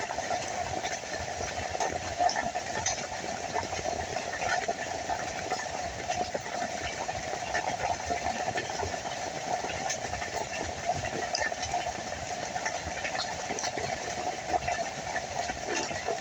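Steady rain falling, a continuous hiss with many small scattered drop ticks.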